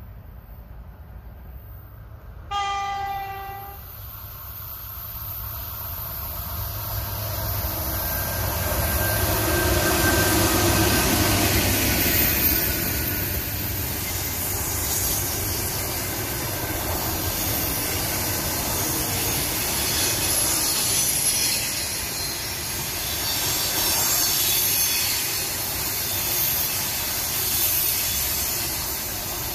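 EP1M electric locomotive sounding its horn once for about a second, then hauling a passenger train past. The noise builds over several seconds and settles into a steady rumble of wheels on rails, swelling and easing as the coaches go by.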